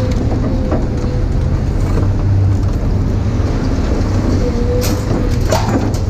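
A vehicle engine running steadily with a low hum, with a few sharp metallic clicks and knocks near the end.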